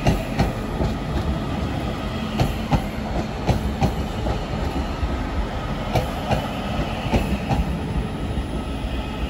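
Northern Class 331 electric multiple unit running past, its wheels clicking and clacking irregularly over the rail joints above a steady rolling rumble.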